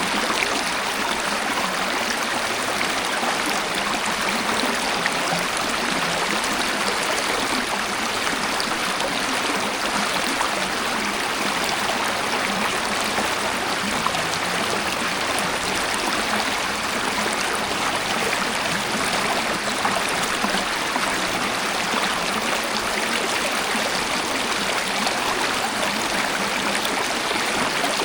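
Waterfall, its water rushing and splashing in a steady, even wash with no change.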